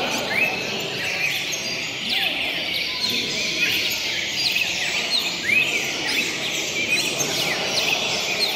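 Several red-crested cardinals singing at once, a dense overlap of short arched and sliding chirps, a few each second, over a steady background noise.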